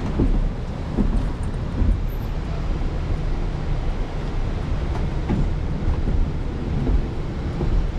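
Car running along a road, heard from inside the cabin: a steady low rumble of engine and road noise, with a few dull thumps.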